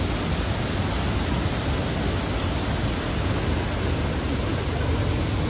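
Loud, steady rushing of a waterfall, an even roar of falling water with no breaks.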